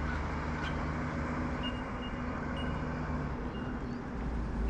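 A motor vehicle engine running steadily nearby, a low even drone, with faint short high-pitched tones coming every second or so.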